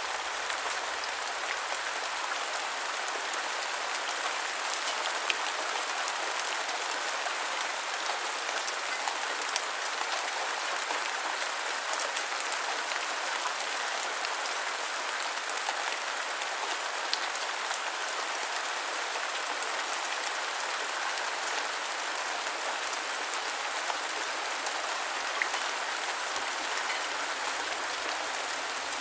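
Steady rain falling, an even hiss with scattered drop ticks and no change in intensity.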